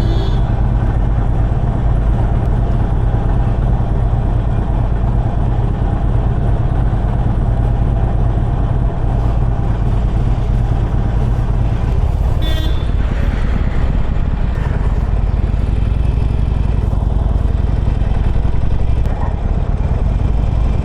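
Harley-Davidson Forty-Eight's air-cooled V-twin on its stock exhaust, running steadily while the bike is ridden along the road. There is one brief sharp sound about twelve seconds in.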